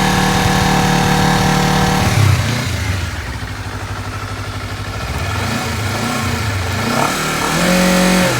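Honda CBR250RR's parallel-twin engine through its stock exhaust, held steady at about 4000 rpm, then dropping suddenly back to idle about two seconds in. Near the end it revs up again and holds a steady higher note.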